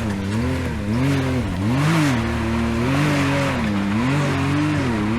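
Side-by-side UTV engine revving in repeated surges as it works up a rocky waterfall ledge. The revs rise and fall about once a second, with a burst of noise near the midpoint.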